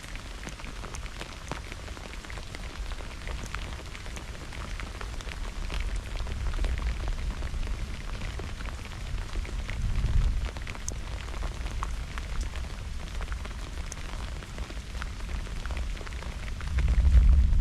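Steady rain falling with individual drops pattering close by, under low rolls of thunder that build about six seconds in, swell near the middle and grow loudest near the end.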